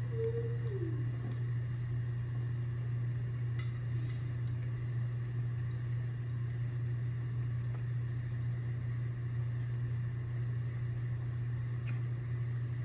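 Small clinks and clicks of eating, utensil and container against food, scattered over a steady low hum. In the first second a short held tone slides downward and fades.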